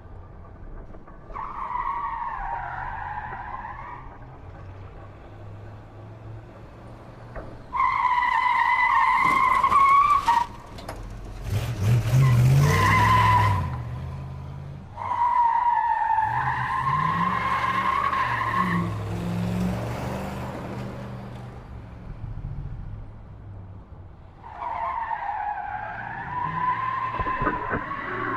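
Racing car engine sounds in four passes of a few seconds each, a high whine that wavers up and down, with tyre skidding in between and a low rumble underneath.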